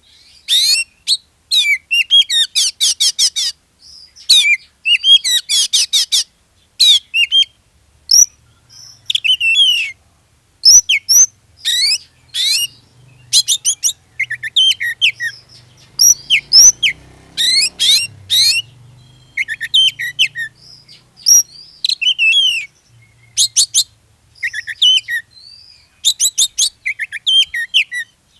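Oriental magpie-robin in full, continuous song: loud, rapid bursts of varied sharp whistles, chirps and fast trills in quick succession, broken by short pauses.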